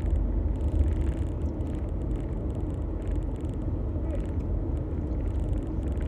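A car moving along, heard from inside the cabin: a steady low engine and road rumble.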